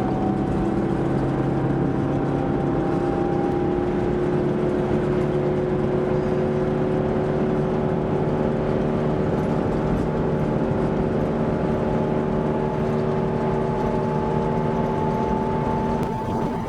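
Steam locomotive Tornado's chime whistle sounding one long held chord of several notes at once, its pitch creeping slightly upward.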